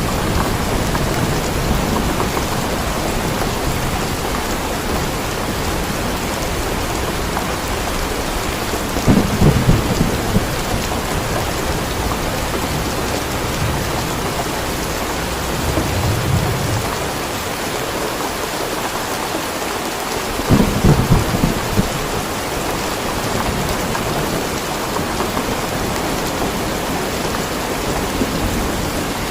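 Steady heavy rain falling, with rolls of thunder rumbling in three times, the loudest about 20 seconds in.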